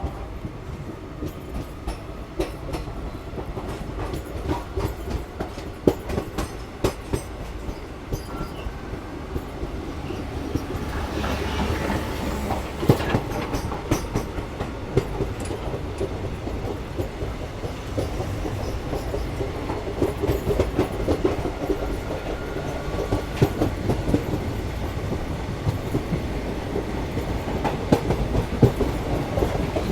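Passenger train, the 11029 Koyna Express, running along the track: a steady rumble with repeated clickety-clack of wheels over rail joints. It grows louder and busier about a third of the way in.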